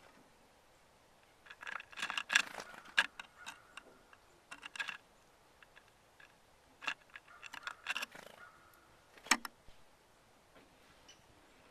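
Birds feeding at a bird feeder: irregular bursts of clicking and rattling as they peck at the seed and knock the feeder about.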